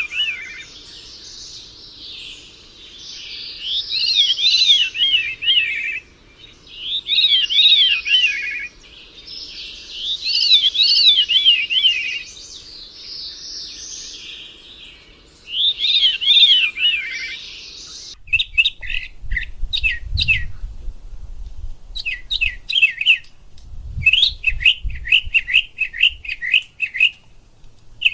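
Small songbird singing: repeated warbling phrases of about two seconds each. About two-thirds of the way in this gives way to quick series of short chirps over a low rumble.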